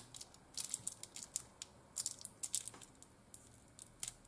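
Crinkle foil being pressed and crumpled by hand, crackling irregularly in short spells.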